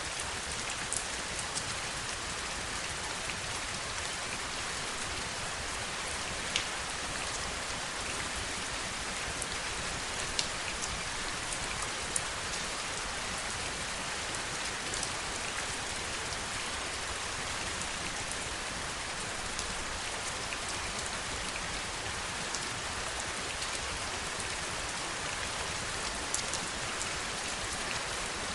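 Heavy rain falling steadily, a dense even hiss with scattered louder single drops ticking through it.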